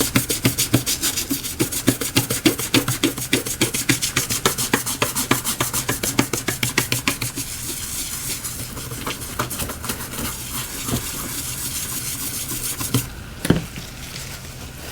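Brush scrubbing back and forth on a Galaxy S7 edge during cleanup after glass removal, fast even strokes of about five a second, turning to quicker, less regular scrubbing partway through. The scrubbing stops near the end, followed by a single click.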